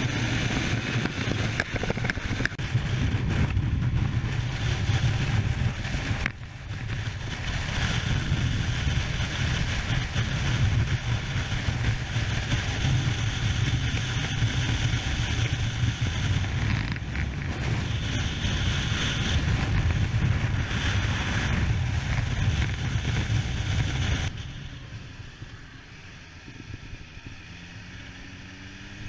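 Kawasaki H2 SX motorcycle's supercharged inline-four running steadily under way, with wind noise; the sound drops away about 24 seconds in as the bike eases off.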